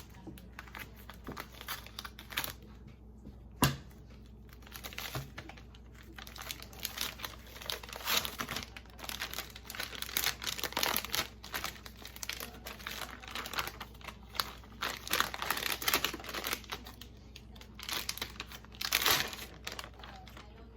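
Lumpia wrappers and their packaging being handled: irregular crinkling, rustling and tearing as the pack is opened and the thin sheets are peeled apart, with one sharp click a few seconds in.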